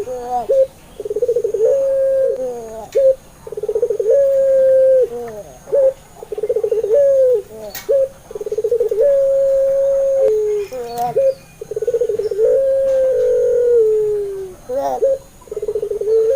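Puter pelung dove cooing over and over: about six coos, each opening with a rapid rolling burr and ending in a long, low held note, some sliding down at the end. This is the lure call played to set other puter doves cooing.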